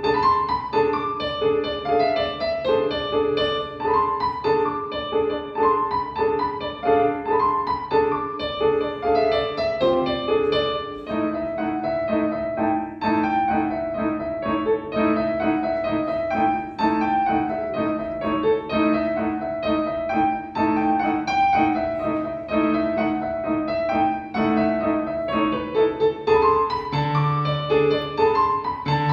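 Solo instrumental music on a keyboard instrument: a melody over held chords, with the harmony shifting about eleven seconds in.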